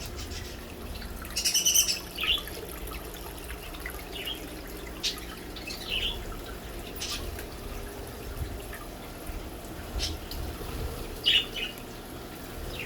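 Birds chirping and calling in an aviary. There is a quick run of high notes about a second and a half in, then short single calls every second or two.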